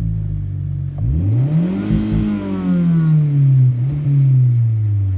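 2002 Volkswagen Jetta's 2.0-litre four-cylinder petrol engine idling, then revved once about a second in: the pitch climbs quickly, peaks, and falls slowly back to idle.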